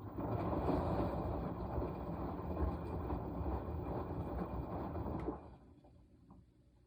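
Washing machine mid-wash: the drum turns for about five seconds with water and laundry churning, then stops abruptly.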